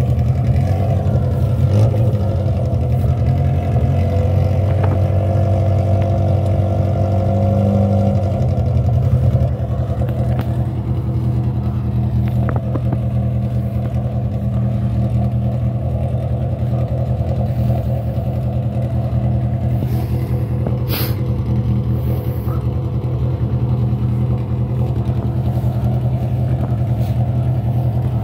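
Rally car's engine idling steadily while stationary at the stage start, its note shifting slightly about nine seconds in. A short sharp click about 21 seconds in.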